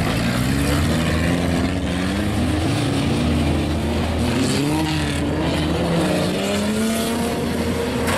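Car engines running and revving, their pitch rising and falling repeatedly over a steady low rumble.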